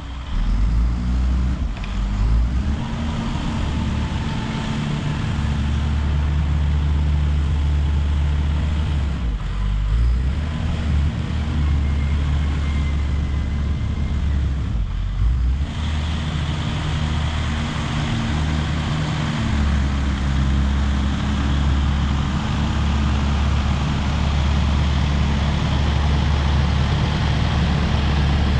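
Caterpillar D5 wide-track bulldozer's diesel engine running steadily under load. Its low drone dips briefly twice, about ten and fifteen seconds in.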